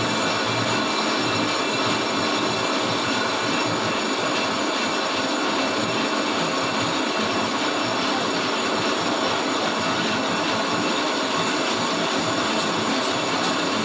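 Metal lathe running steadily while a Suzuki APV brake disc is turned, a continuous machining noise with a faint, thin high whine.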